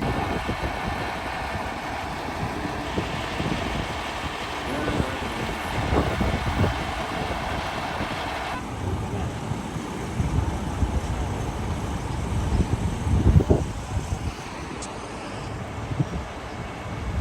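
Garbage truck running. A higher steady noise with faint tones runs over the low engine rumble and cuts off about eight and a half seconds in. The rumble carries on with a few thuds, the loudest about thirteen seconds in.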